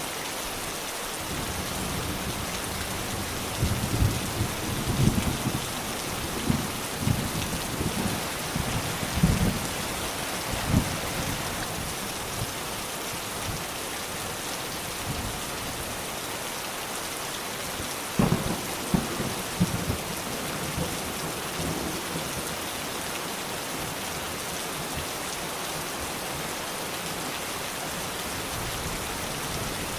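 Steady heavy rain falling, with two spells of low thunder rumbling and cracking, one from about four to eleven seconds in and another around eighteen to twenty seconds.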